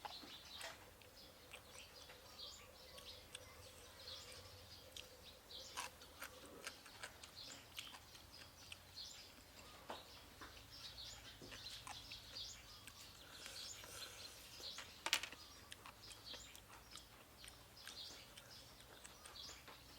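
Faint bird chirps throughout, with a few sharp clicks; the loudest click comes about fifteen seconds in.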